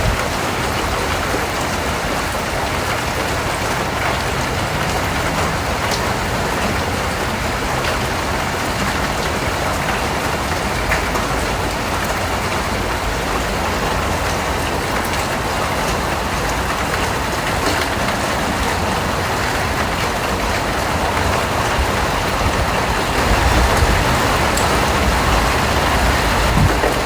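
Steady rain falling, an even hiss with scattered drop ticks. A low rumble grows a little louder in the last few seconds.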